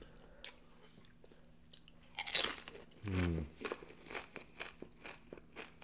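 Close-miked eating sounds: a sharp crunchy bite about two seconds in, a short hummed "mm", then crunchy chewing made of many quick clicks.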